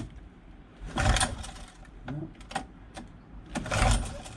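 Pull-cord starter of a Honda outboard motor yanked twice, about two and a half seconds apart. Each pull is a short whirring rasp as the engine turns over without catching.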